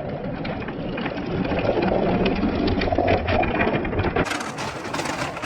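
Balls rolling down a marble-run track: a steady rolling rumble thick with small clicks and clatter. About four seconds in, the sound changes abruptly to a brighter, sharper clatter.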